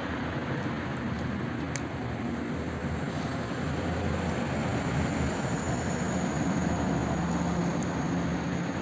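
Wood fire crackling in a fireplace: a steady rushing noise of burning with a few faint crackles and one sharper crack about two seconds in.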